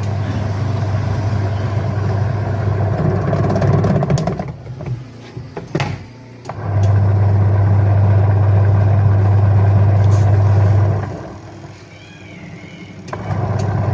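Repaired washing machine's spin motor running with a strong, steady hum. It starts on its own now, with no push needed. It runs in three spells: it stops about four and a half seconds in after a few clicks, runs again from about six and a half to eleven seconds, and starts once more near the end.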